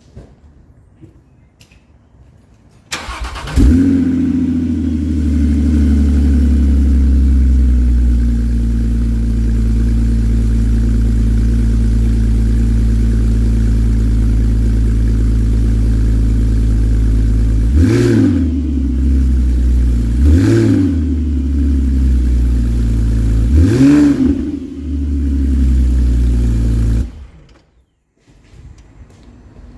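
2010 Porsche Cayman's flat-six engine with a Borla aftermarket exhaust, cold-started about three seconds in: the starter turns briefly, the engine catches and settles into a loud steady idle. It is revved in three short blips, then switched off near the end.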